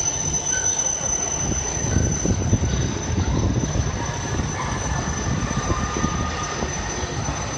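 Electric trains moving on the station tracks: a loud, uneven low rumble of wheels on rails, with a thin steady high tone above it that stops near the end.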